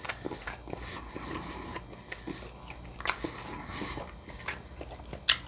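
A person chewing food close to the microphone: irregular wet mouth clicks and smacks, with a louder click about three seconds in and another near the end.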